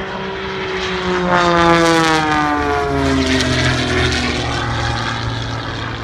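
Single-engine aerobatic propeller plane flying past, its engine note falling in pitch as it goes by and loudest about two seconds in.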